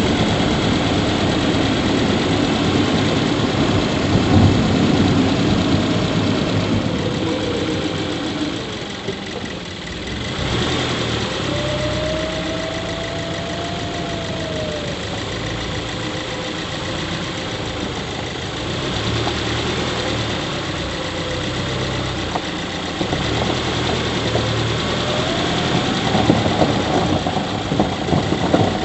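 Subaru Levorg 1.6GT-S's turbocharged flat-four idling, with a faint squeak from the engine bay that rises and falls in pitch a couple of times. The owner suspects the squeak is an abnormal noise that has not been traced.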